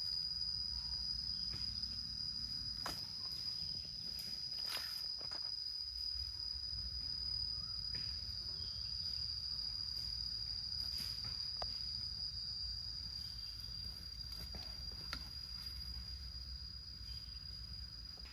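Insects, crickets or cicadas, singing as one steady high-pitched drone over a low rumble, with scattered sharp clicks and snaps.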